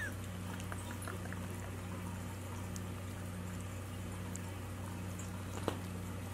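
Faint wet licking and smacking of a schnauzer licking a treat off a fingertip, over a steady low hum, with one sharp click near the end.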